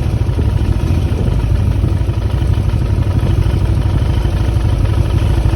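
Motorcycle engine running steadily while riding, a low rumble with no change in pace.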